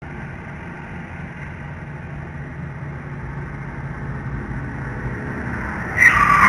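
Steady car driving noise, a low engine and road rumble that slowly grows louder. Near the end a sudden, much louder sound cuts in.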